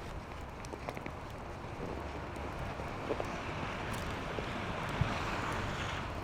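City street in a snowstorm: steady wind and traffic noise that swells loudest about five seconds in, with a few faint clicks.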